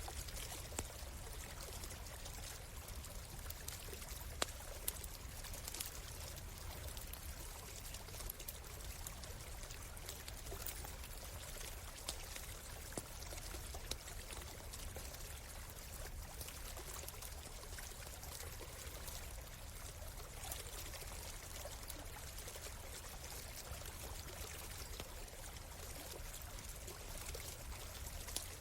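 A stream running steadily, with a campfire crackling over it and now and then giving a sharper pop.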